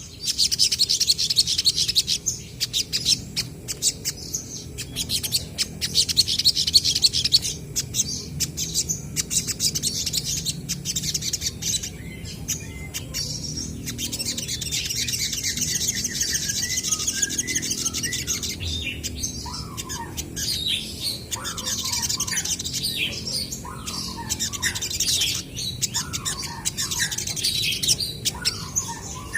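Olive-backed sunbirds singing and calling back and forth: rapid, high-pitched chirps and trills, with lower, short down-sliding notes joining in after the middle.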